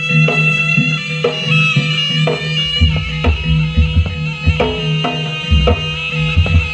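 Jaranan ensemble music: a reed pipe with a nasal, bagpipe-like tone (the slompret) plays a sustained melody over regular hand-drum strokes, and deep bass beats join about three seconds in.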